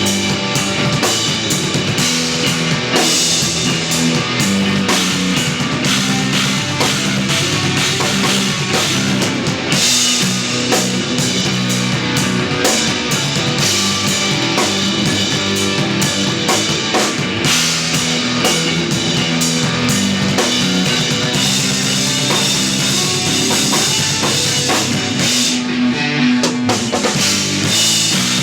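Live instrumental post-rock from an electric guitar, electric bass and drum kit, played loud and continuously, with steady drumming and sustained bass notes.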